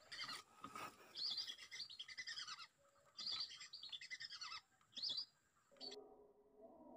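Faint wild birds chirping and calling in short bursts, several bursts over about five seconds.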